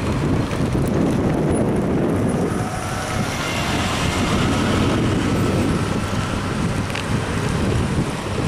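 Car driving along a street, heard from inside: steady engine and road rumble with wind buffeting the microphone.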